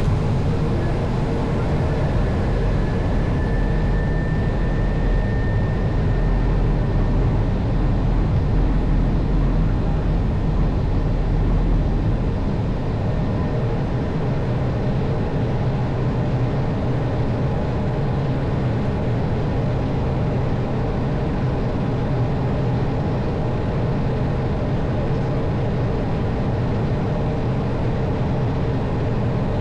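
Steady noise of an Airbus airliner's jet engines and rushing air, with a low rumble that eases about twelve seconds in.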